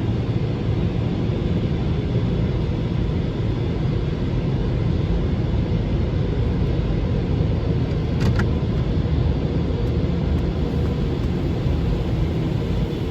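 Steady, even rumble of a Belanger Vector Rapid Wash touchless car wash running, heaviest in the low range, with a faint tick about eight seconds in.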